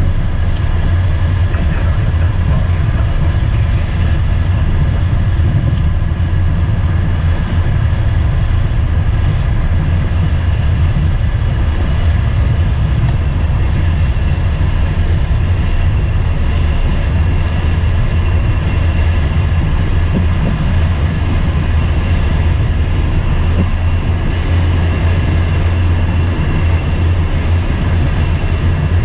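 Steady low rumble of cabin noise inside the cockpit of an Embraer Phenom twin-turbofan business jet, with a few faint steady whining tones above it.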